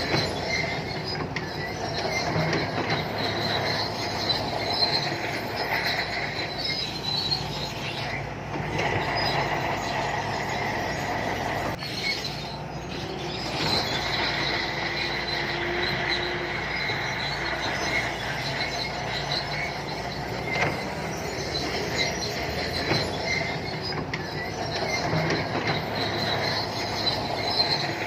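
Shantui crawler bulldozer at work: the diesel engine running under load, with a steady high squeal and clank from the steel tracks.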